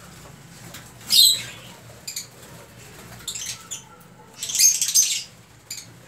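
Small aviary birds making several short, shrill, high-pitched bursts of sound, a second or two apart.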